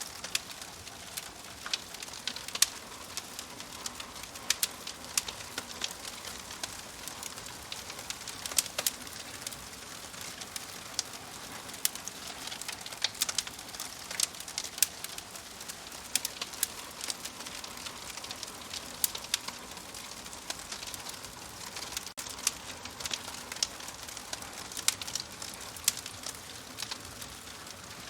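Wood fire crackling: a steady hiss with irregular sharp pops and snaps, several a second.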